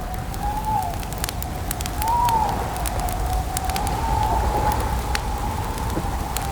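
Campfire crackling, with frequent sharp pops over a low steady rumble. Soft owl hoots rise and fall over it, about one every two seconds.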